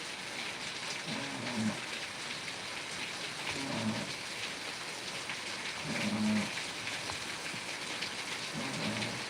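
Steady rain falling on surfaces. A short, low pitched sound repeats about every two and a half seconds.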